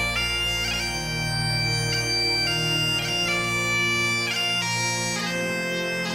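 Bagpipes playing a tune over steady drones, the melody moving in clean steps from one held note to the next.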